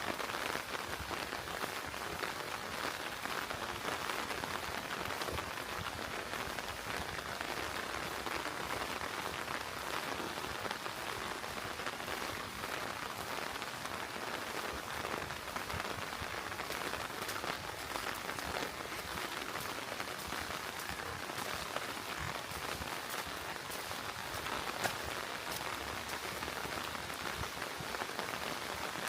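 Steady rain falling, with many separate drop hits close to the microphone.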